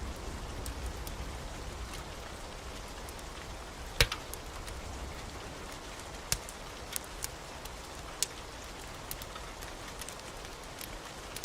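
Steady rain falling, with scattered sharp pops over it, the loudest about four seconds in.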